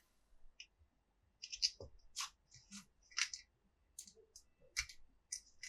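Plastic toy pieces being handled: scattered light clicks and scrapes, a few a second at most, with short gaps of near silence between them.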